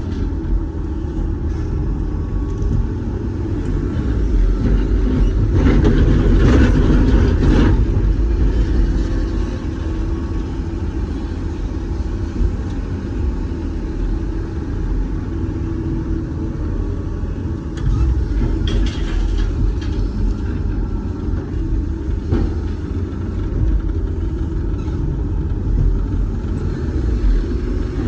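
Doosan DX420LCA excavator's diesel engine and hydraulics running under load, heard from inside the cab as a steady low rumble. It grows louder with a harsher rush about a fifth of the way in, and again briefly past the middle.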